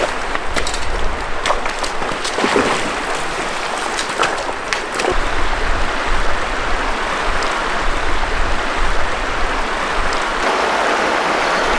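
River water rushing over rocks, a steady hiss. A few short clicks or knocks come in the first half.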